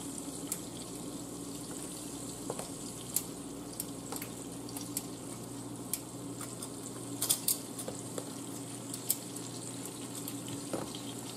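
Chicken legs sizzling in hot olive oil and butter in a frying pan: a steady frying hiss with scattered short pops and crackles.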